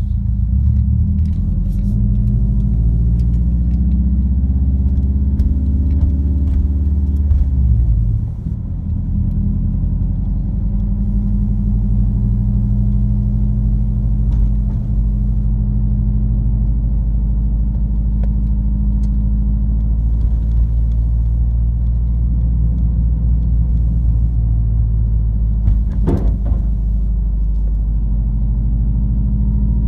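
Exhaust drone inside the cabin of a cruising Subaru WRX fitted with an Invidia N1 dual exhaust: a low, steady rumble. About eight seconds in it briefly drops and changes note, and late on a single sharp knock from a road bump cuts through.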